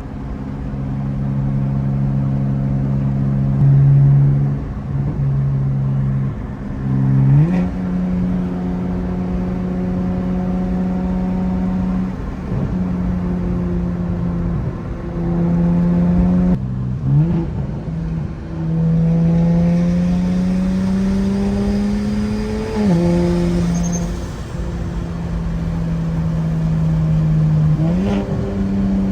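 Single-turbo BMW N54 inline-six engine running under light load while driving. The engine note holds fairly steady, slowly climbs once, and jumps quickly in pitch three times.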